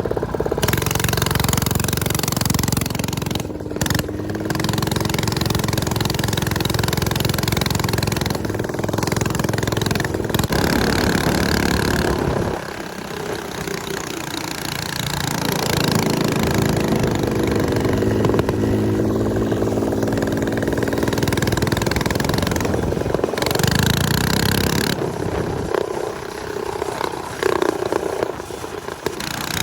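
Small off-road motorcycle engine running under load while riding, its pitch rising and falling with the throttle. Heavy wind noise on the microphone runs throughout.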